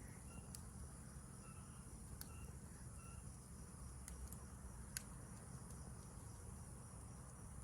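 Crickets and other night insects trilling steadily at a high pitch, with short chirping calls over the first three seconds. A few sharp crackles from a wood campfire cut through, the loudest about five seconds in.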